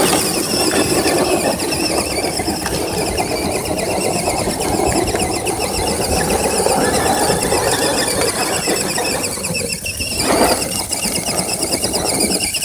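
Electric RC trucks straining against each other in a tug-of-war pull: a high motor and gear whine that wavers up and down in pitch, over tyres scrabbling on rocky dirt. It surges briefly about ten seconds in.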